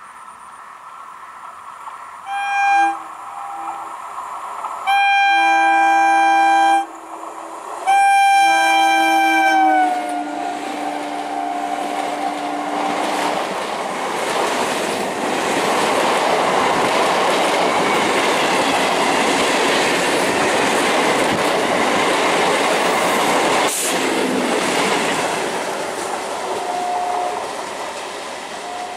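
EMU electric local train sounding its horn: a short blast, then two long ones, the last dropping in pitch as the train passes. Then the rushing noise of the coaches and wheels going by, with a faint horn near the end.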